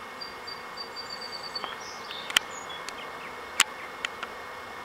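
A swarm of honeybees buzzing steadily as it settles into the new hive box. A few sharp clicks cut through the buzz, the loudest about two and a half and three and a half seconds in.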